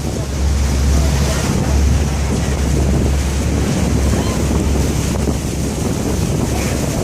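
Wind buffeting the microphone over a steady rush of water, with a constant deep rumble.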